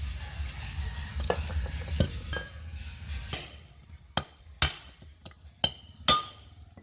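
Small metal parts clinking against each other and onto a hard surface, with several sharp, briefly ringing clinks in the second half. A low hum fades out about halfway through.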